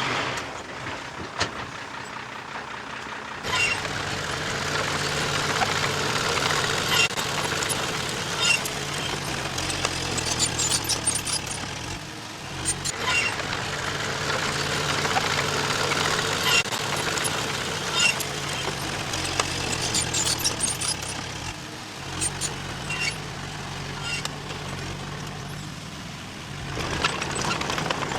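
Diesel engine of heavy earthmoving machinery working under load, with frequent sharp metallic clanks and rattles. It picks up a few seconds in, eases off briefly twice, and builds again near the end.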